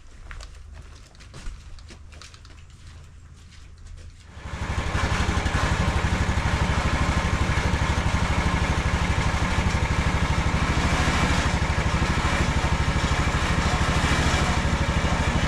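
Portable sawmill engine idling low, then throttled up about four seconds in and running loud and steady at high speed with an even, fast pulse.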